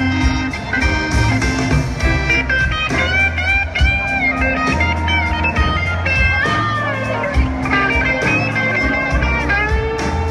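Live blues-rock band playing an instrumental break: a lead electric guitar solo with gliding, bending notes over bass and drums.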